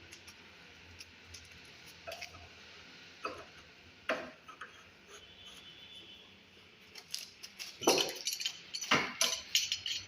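Scattered clicks and clinks of hard objects being handled, becoming louder and more frequent in the last three seconds.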